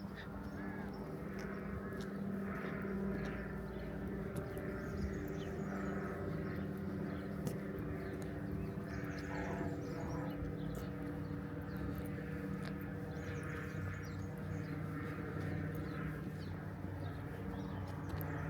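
Outdoor street ambience: a steady low hum with soft recurring rustles and scattered faint clicks.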